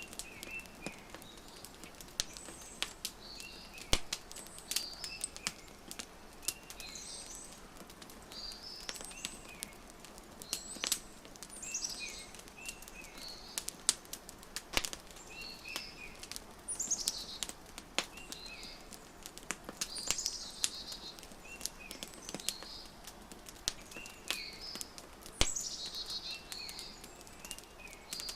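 Wood fire crackling with frequent sharp pops, over a soft steady hiss, mixed with songbirds chirping in short repeated phrases every second or two.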